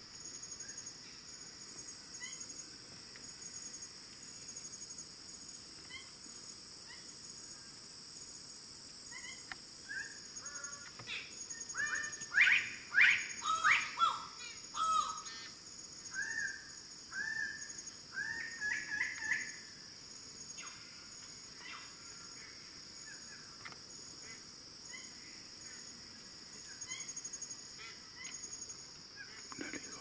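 Red bird-of-paradise calling: a run of loud, harsh, repeated calls, many falling in pitch, starting about ten seconds in and lasting about ten seconds, over a steady high insect drone.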